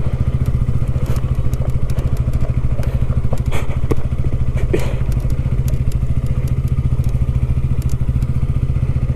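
KTM Duke 200's single-cylinder engine running at a steady, unchanging speed, with a few faint clicks over it.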